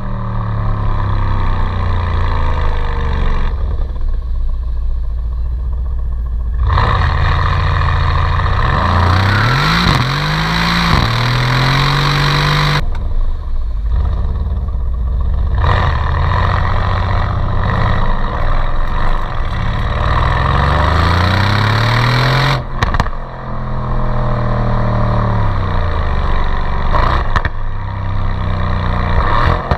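Stock exhaust of a 2017 Mercedes-AMG C63 twin-turbo V8, heard in short clips spliced together: the engine runs steadily, then climbs in pitch under acceleration, about ten seconds in and again about twenty seconds in, and falls away as it slows near the end. The sound changes abruptly several times where one clip gives way to the next.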